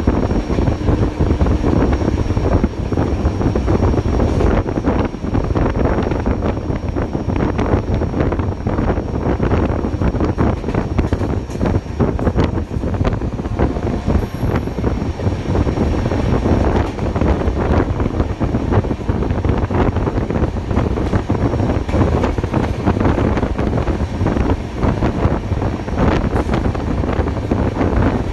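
Steady wind buffeting the microphone held outside a Shatabdi Express running at speed, over the running noise of its coaches on the track.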